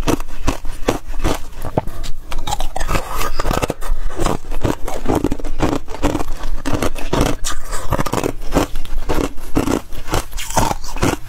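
Freezer frost crunching close to the microphone: a dense, continuous run of quick crisp crunches and scrapes as the frost is bitten and chewed.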